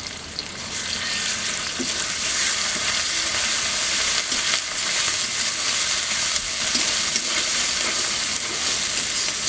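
Onions, whole spices and chillies sizzling in hot oil in a cooking pan while being stirred. The sizzle gets louder over the first second or two, with faint scrapes and ticks from the stirring.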